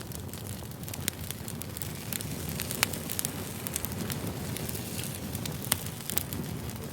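Campfire burning: a steady low rumble of flames with frequent sharp crackles and pops of burning wood, a few of them louder.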